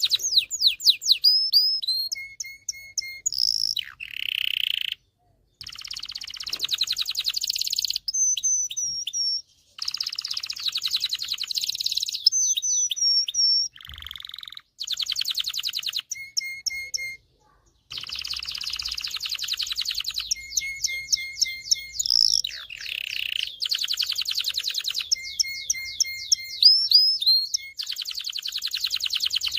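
Domestic canary singing, a continuous song of fast trills, repeated downward-sweeping whistles and short chirped phrases, with brief pauses between phrases.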